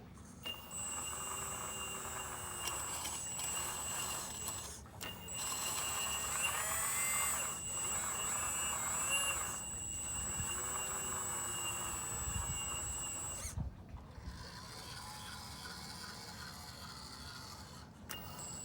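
Hydraulic pump of a Magom HRC 330D radio-controlled CAT excavator model, whining steadily as the machine works, with short breaks about five and ten seconds in. It gets louder in the middle, then cuts out about thirteen seconds in, leaving a fainter hum.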